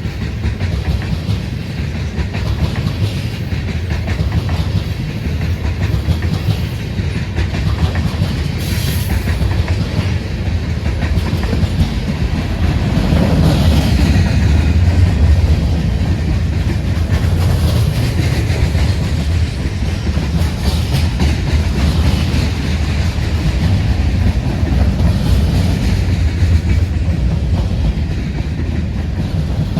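Freight train rolling past at close range: a steady rumble of wheels over rail joints with clickety-clack. It swells a little in the middle, with brief high squeals.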